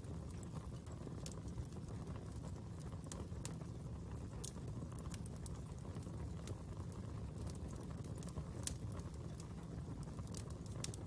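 Fire crackling: irregular sharp pops and snaps, one louder pop a little over eight seconds in, over a steady low rumble.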